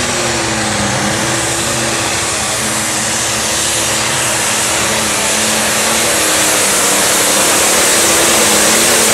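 Pulling tractor's engine running flat out down the track during a pull: a loud, steady drone with a slight waver, growing a little louder as the pass goes on.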